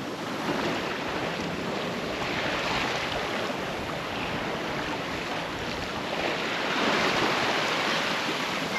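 Water rushing and splashing along the hull of a sailboat under sail, swelling twice as the boat moves through the waves, with wind on the microphone.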